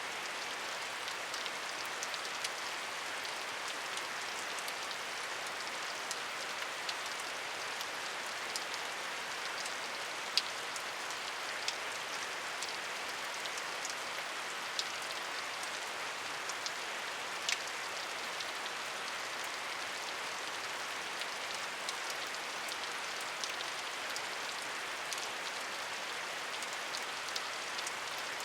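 Steady rainfall: an even hiss of rain with scattered individual drops ticking on a surface, a few of them louder.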